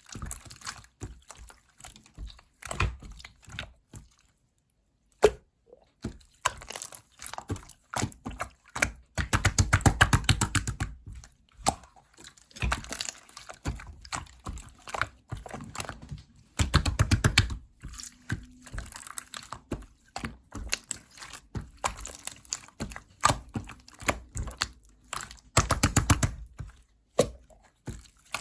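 Clear slime being squeezed and pressed by hand, making bursts of rapid small clicks and pops.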